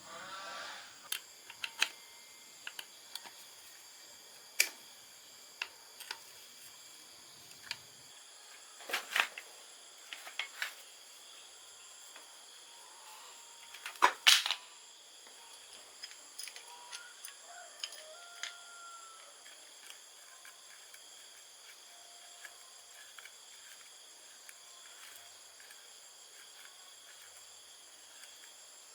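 Hand tools and metal motorcycle parts knocking and clicking now and then, the loudest a double knock about halfway through. A steady high chorus of insects runs under them.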